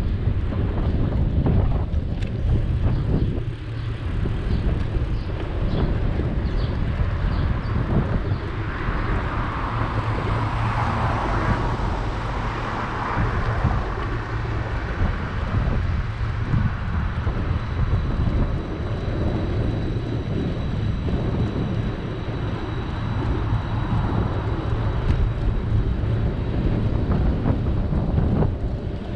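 Wind buffeting the microphone of a moving bike-mounted camera, a steady low rumble, with a louder rush of street traffic swelling for several seconds about a third of the way in.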